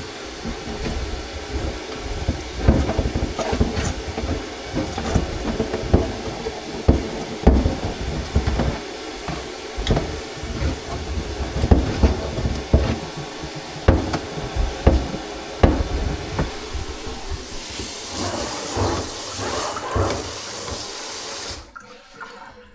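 Irregular knocks and clatter of plumbing work over a steady hiss of running water; the hiss grows stronger near the end, then cuts off suddenly.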